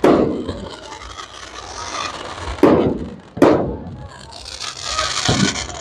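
Fireworks exploding overhead: three sharp bangs, at the start, about two and a half seconds in, and just after, each fading away as it echoes. Then a hissing crackle of crackler shells for about a second near the end.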